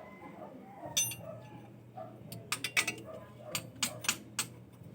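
A series of sharp, irregular clicks and knocks, bunched mostly in the middle and latter part, over a low steady hum and faint voices.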